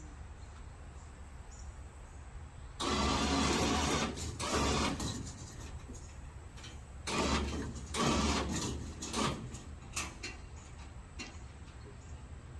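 A small motor whirring in two bursts of about two seconds each, followed by a couple of sharp clicks.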